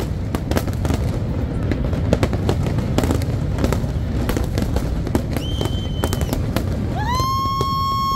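Aerial fireworks display: a continuous low rumble of bursts with many sharp bangs and crackles. Near the end a shrill whistle glides up and holds for about a second.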